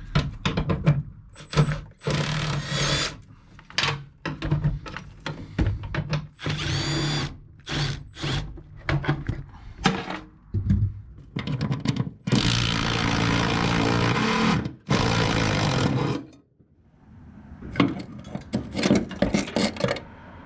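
Handheld power tool running bolts out of a throttle linkage in repeated short bursts, with one longer run of about four seconds past the middle, between clanks of tools and metal parts.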